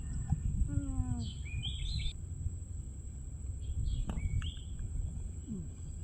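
Outdoor ambience: birds chirping in short calls, twice, over a steady low rumbling background noise and a thin steady high tone.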